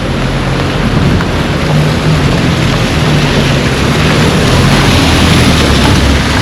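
A motor vehicle's engine running close by, steady and getting gradually louder, over a constant loud hiss.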